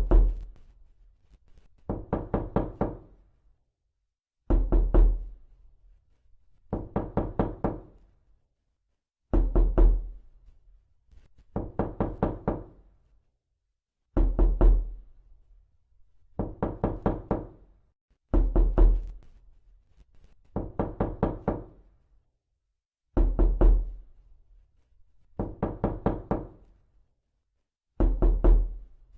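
Repeated knocking in quick bursts of four or five raps, a burst about every two and a half seconds. Every other burst is heavier, with a deep thud under it.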